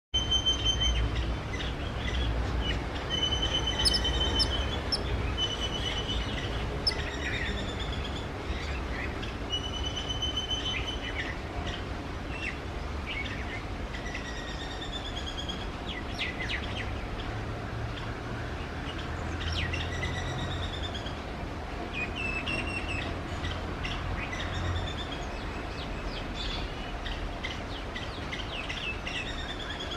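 Female house sparrow chirping among other birdsong, with short chirps and some held whistled notes, over a steady low rumble of background noise.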